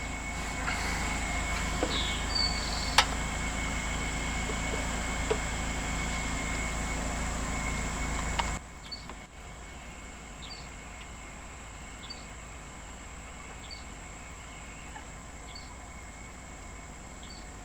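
A steady low rumble, like an engine running, stops abruptly about eight and a half seconds in. It leaves quiet outdoor background with a short high chirp repeating about every second and a half, like a cricket or other insect.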